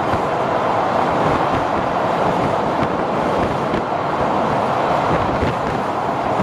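Passenger train running at speed, heard from on board: a steady rumble and rush of wheels on rail, with a few faint rail-joint clicks.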